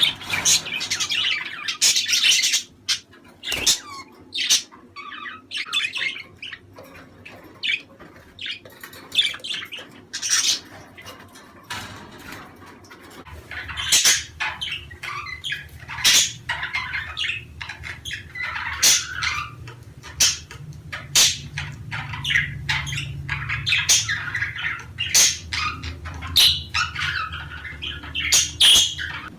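A flock of budgerigars chattering: a dense, unbroken run of short chirps and squawks. A low rumble joins underneath about halfway through.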